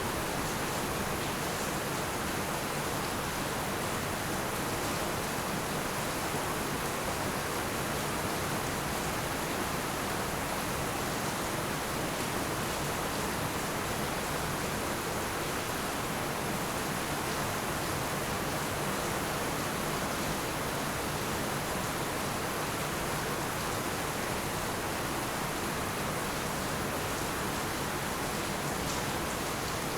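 Heavy rain falling steadily, a dense even hiss with no let-up and no thunder.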